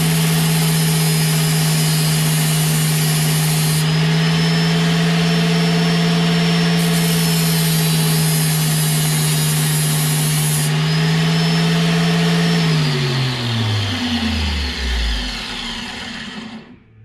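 Electric drill running at a steady high speed with a constant whine, then let go about 13 seconds in and winding down with a falling pitch until it stops.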